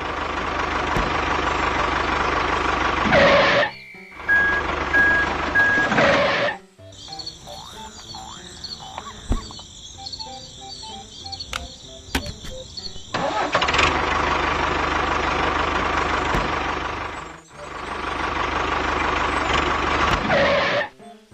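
A motor vehicle's engine running in several stretches of a few seconds, some ending in a quick rise like revving. A short quieter passage of music falls in the middle.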